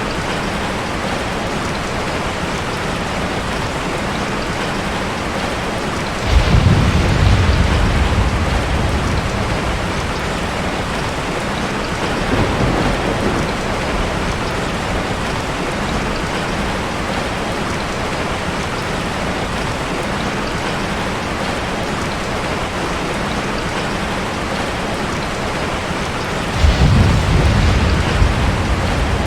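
Steady heavy rain, with rolling thunder breaking in twice, about six seconds in and again near the end, and a fainter rumble in between.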